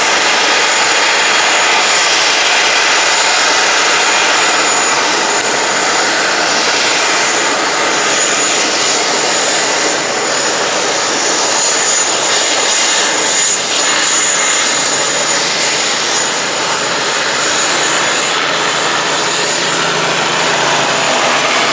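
Robinson R44 Raven II helicopter running close by: a loud, steady rush of rotor and engine noise with a thin high whine over it.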